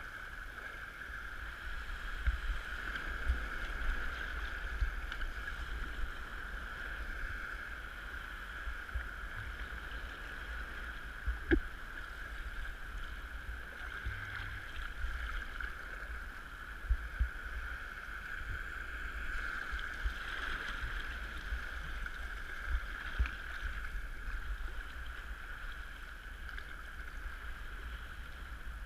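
Water sloshing around a kayak on the sea, with irregular low buffeting on the microphone and a single sharp knock partway through.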